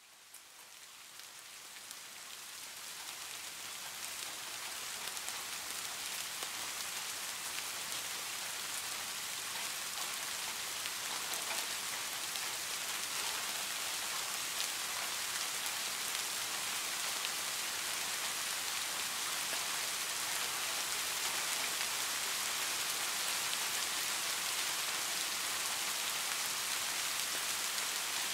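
Steady rainfall: a hiss of many small drops, with faint individual drop ticks. It fades in over the first few seconds, then holds level.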